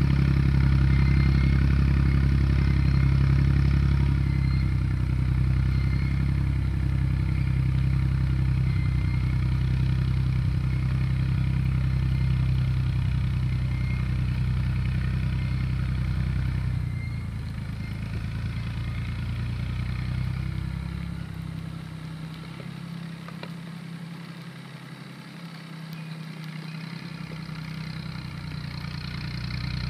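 Tractor engine running steadily under load with some clatter, most likely from the field roller it is pulling. The engine grows fainter about two-thirds of the way through, then louder again near the end.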